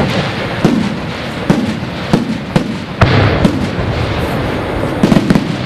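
Fireworks display: aerial shells bursting in a string of sharp bangs, roughly one every half second, with a quick cluster of bangs near the end, over a steady noisy background.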